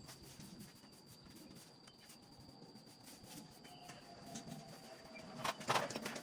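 Faint rubbing and scratching sounds that turn into a louder, rough scraping about five and a half seconds in, as of cleaning work being done on a surface.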